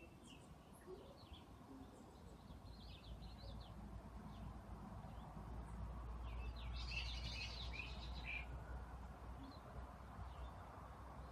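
Small birds chirping faintly in short, quick notes, with a busier flurry about seven seconds in, over a low steady rumble.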